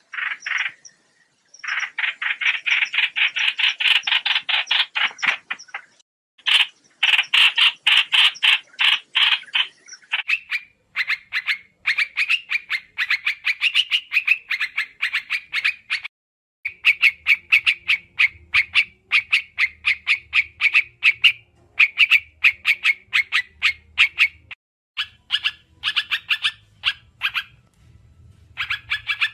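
Lure recording of the bird called trao trảo in Vietnamese: fast, chattering runs of short repeated call notes, broken by brief pauses. A faint low hum joins about halfway through.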